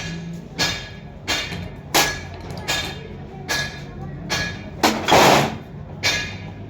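Hammer blows on metal engine parts, about one sharp ringing strike every 0.7 s, with a short rushing hiss about five seconds in.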